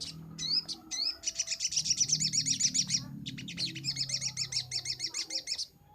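Little spiderhunter (sogok ontong) singing: a few separate rising chirps, then two long, rapid chattering trills of high notes at about ten a second, with a short break between them.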